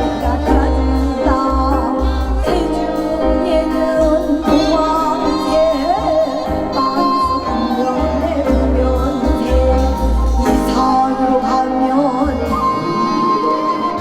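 Live Korean traditional folk music: a wavering, ornamented melody over a low beat.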